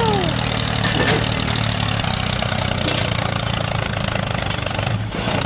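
Mini tractor engine idling steadily with a rattling note, with a brief knock about a second in.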